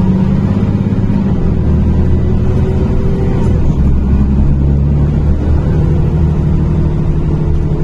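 NefAZ-5299 city bus engine running as the bus drives, heard from inside the cabin. The engine note shifts in pitch a couple of times partway through.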